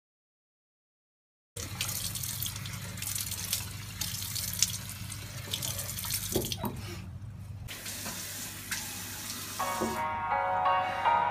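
Tap water running into a bathroom sink and splashing over cupped hands being washed, starting abruptly about a second and a half in. Music comes in near the end.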